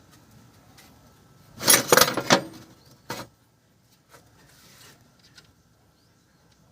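Metal parts or hand tools being handled, with a quick run of loud clinks and rattles about two seconds in, a single clink a second later, then a few faint ticks and a soft rub.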